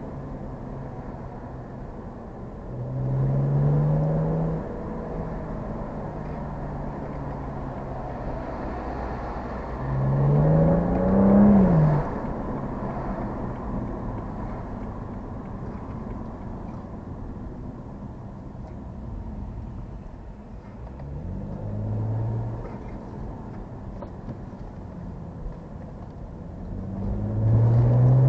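Car engine, plausibly a BMW N55 turbocharged inline-six, running steadily at cruise and pulling hard four times, its pitch climbing with each acceleration: a few seconds in, around ten seconds in (ending in a sharp drop as the throttle lifts or it shifts), about two-thirds through, and again near the end.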